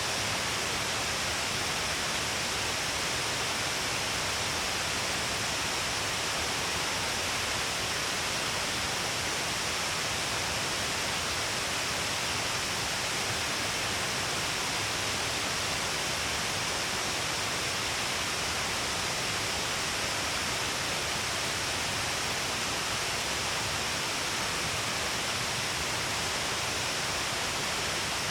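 Steady rush of falling and flowing water at Shiraito Falls, an even hiss with no breaks or changes.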